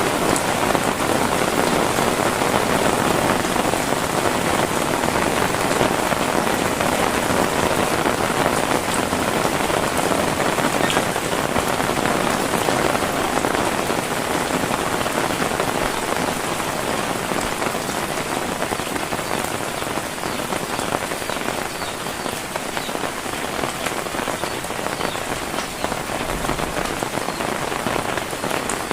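Heavy rain falling steadily, a dense hiss of drops that eases slightly in the second half.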